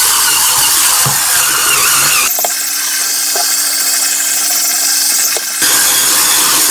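Cordless battery spin scrubber running on a wet sink, a small motor under a loud steady hiss. From about two seconds in to near the end a steady whine stands out, starting and stopping abruptly.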